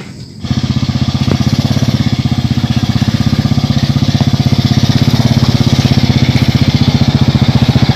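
Suzuki underbone motorcycle's small engine running with a steady, fast putter, cutting in abruptly about half a second in.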